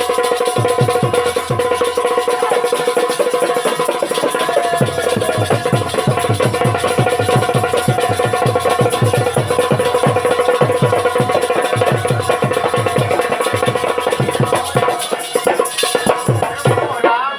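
Instrumental interlude of a Bundelkhandi Rai folk song: a held melody line over rapid, repeated drum strokes with light percussion, the drums dropping out near the end.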